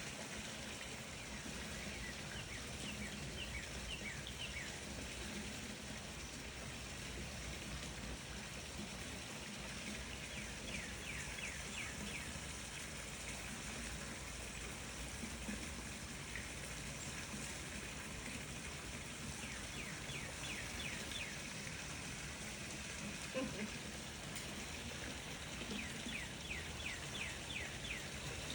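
Small birds chirping in several short runs of quick, high, falling notes, over a steady rushing background noise.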